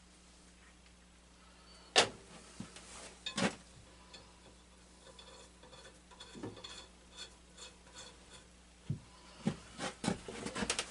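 Handling noise from a lawn tractor teardown: a sharp knock about two seconds in and another a second and a half later, then scattered light clicks and a quick run of knocks near the end, as tools and parts are picked up and set down.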